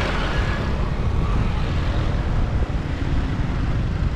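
Riding a motorbike through city traffic: a steady, loud rumble of engine, tyre and wind noise. A brighter hiss at the start fades over about a second and a half.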